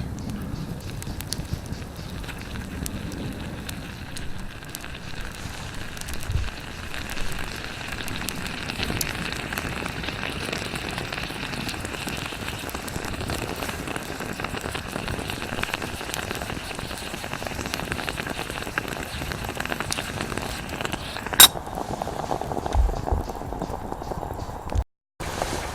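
Bialetti stovetop moka pot bubbling and hissing over a campfire as the coffee boils up, with the wood fire crackling throughout and one sharp click near the end.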